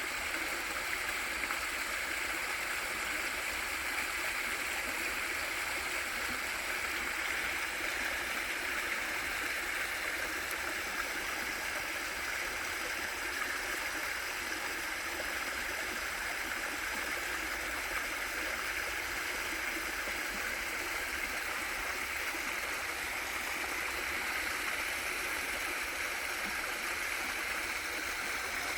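Small waterfall in a mountain stream: a steady rush of falling water with gurgling.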